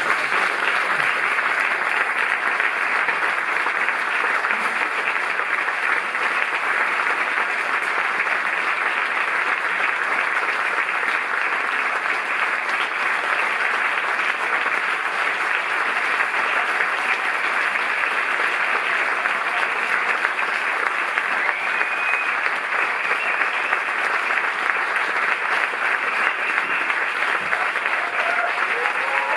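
Audience applauding steadily, with a few short voices rising above the clapping near the end.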